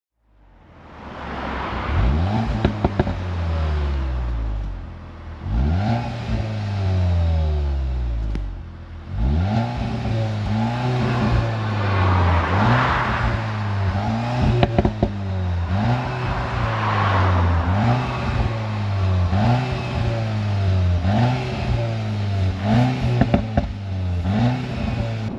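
Cupra Formentor VZ's 2.0 TSI turbocharged four-cylinder engine and exhaust being revved again and again. The revs rise and fall in a regular rhythm of about one blip every second and a bit, with sharp cracks from the exhaust scattered through. The sound swells in over the first couple of seconds.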